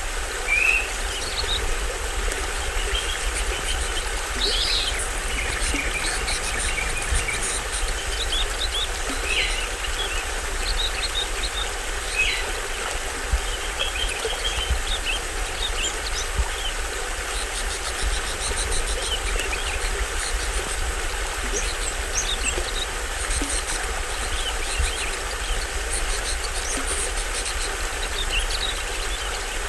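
A small stream-let waterfall splashing and running steadily, with tropical forest birds giving short scattered chirps and calls over the water.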